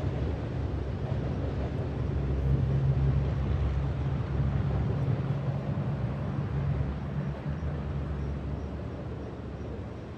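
BNSF intermodal freight train running past, a steady low rumble with a diesel hum that peaks a few seconds in and then slowly fades.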